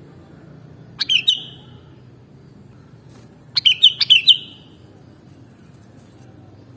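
Sooty-headed bulbul (kutilang) calling: a short burst of bright chirping notes about a second in, then a longer phrase of several notes around three and a half seconds in, over a faint low hum.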